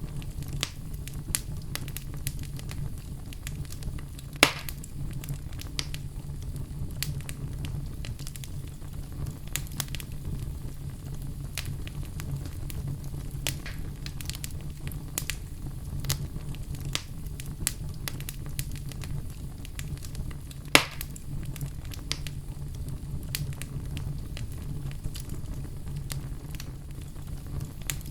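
Wood fire crackling, with scattered small pops and two louder pops, one about four seconds in and one about twenty seconds in, over a steady low rumble.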